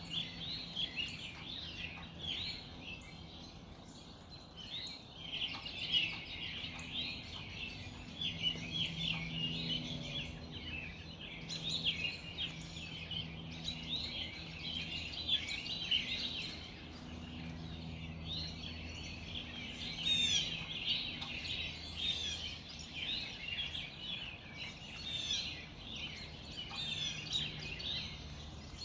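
Early-morning chorus of many songbirds singing and chirping at once, a dense, continuous overlap of short high calls and trills.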